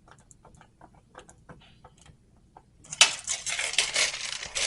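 Faint scattered clicks, then about three seconds in a burst of dense metallic rattling: a steel tape measure's blade retracting into its case after a measurement.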